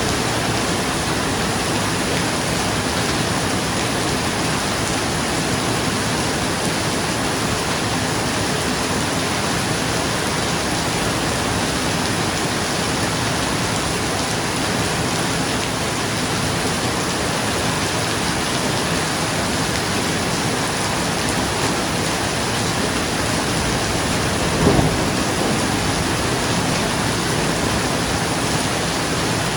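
Steady rain falling on a roof, an even hiss. A single brief low thump stands out about 25 seconds in.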